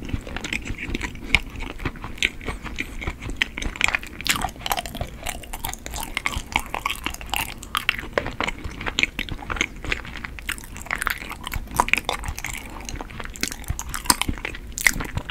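Close-miked chewing of chewy Korean rice cake (tteok): a steady run of many quick, irregular mouth clicks and smacks.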